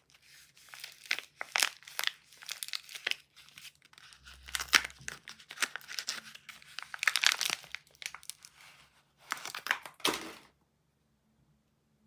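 A soap wrapper being crinkled and torn open by hand: a dense run of quick rustles and rips that stops about ten and a half seconds in.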